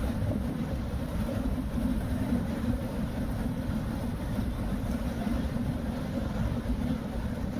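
Steady low rumble of a moving car's tyres and engine, heard from inside the cabin while driving on a rain-wet road.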